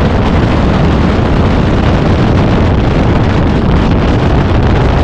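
Hurricane wind buffeting the microphone: a loud, steady, rumbling roar of wind noise.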